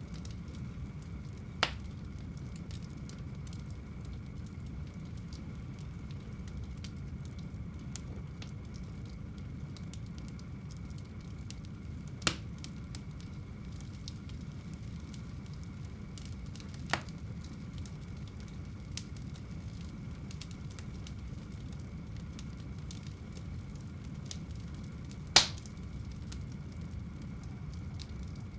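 Fire burning in a home fireplace: a steady low rumble with fine crackling, and four sharp pops spread through, the loudest near the end.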